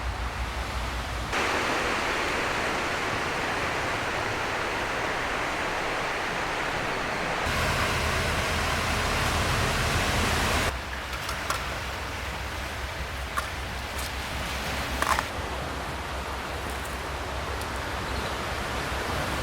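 Steady rushing of sea surf and wind, changing abruptly in loudness and brightness a few times, with a few faint clicks in the second half.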